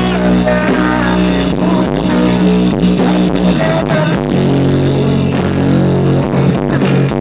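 Loud song with guitar and drums played through a large PA sound system during a sound check, with heavy, steady bass notes.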